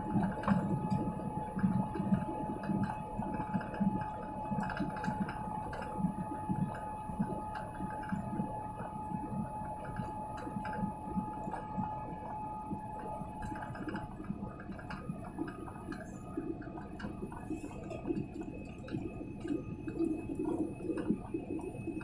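Airliner cabin ambience after landing: a continuous low, uneven rumble with a steady hum-like tone that stops about two-thirds of the way through.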